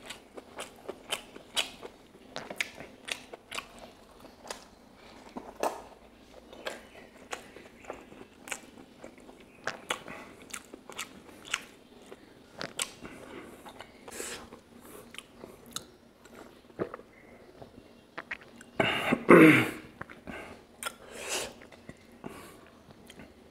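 Close-miked eating of pork curry with rice: wet chewing and lip smacks that give many short, sharp clicks. About 19 seconds in, a louder noisy sound lasting about a second slides down in pitch.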